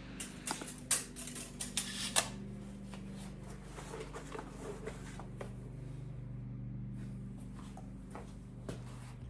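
Light clicks and taps of tools and metal parts being handled during lathe setup, several in quick succession in the first two seconds and a few scattered later, over a steady low hum.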